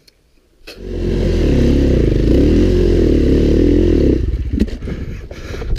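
Dirt bike engine revving up and down, its pitch rising and falling over and over; it starts suddenly less than a second in. Near the end it drops to a lower, rougher running sound with scattered clattering knocks.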